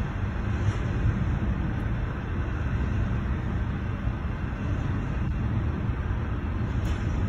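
Steady low rumble of a CSX intermodal freight train rolling past a grade crossing, heard from inside a stopped car.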